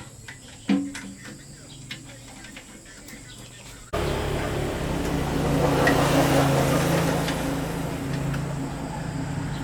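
Small portable generator's engine running steadily. It cuts in abruptly about four seconds in, after a quieter stretch of faint clicks and one short animal call.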